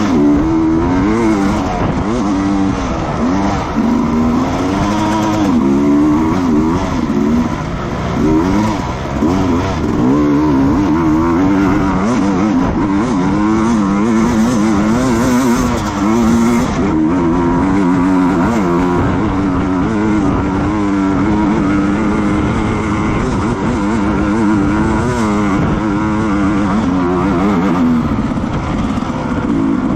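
Racing motorcycle engine at full race pace, pitch climbing and dropping again and again as the rider works up and down through the gears, with steady wind and road noise underneath.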